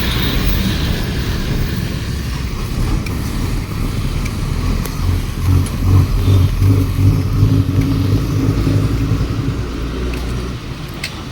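A motor vehicle's engine running close by, a low rumble that is loudest in the middle and eases off toward the end.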